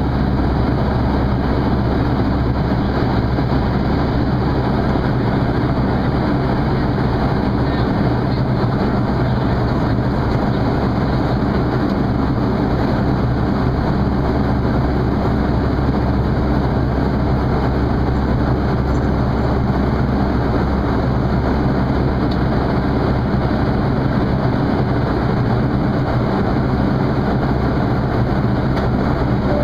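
Steady cabin noise of a Boeing 737-300 airliner in flight: the even rush of airflow over the fuselage with the low hum of its CFM56 jet engines, heard from inside the passenger cabin.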